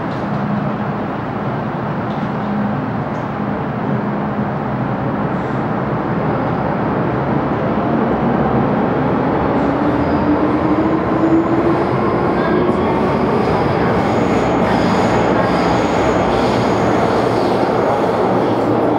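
MTR Q-train metro car running on the line with steady wheel and rail noise. About halfway through, a whine rises steadily in pitch as the train gathers speed, and the running noise grows a little louder.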